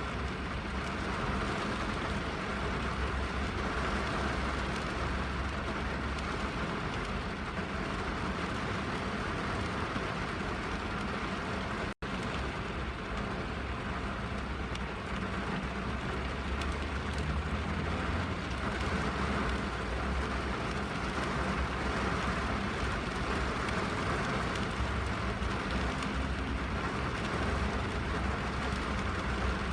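Steady rain falling on a car's roof and windows, heard from inside the cabin, with a low rumble underneath. The sound cuts out for an instant about halfway through.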